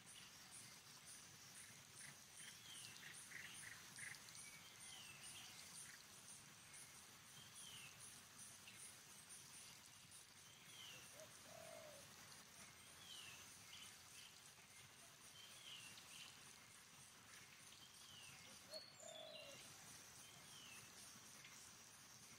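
Faint outdoor ambience of a bird repeating a short, falling call every two to three seconds, over a high, rapid ticking of about three pulses a second that fades out about a third of the way in.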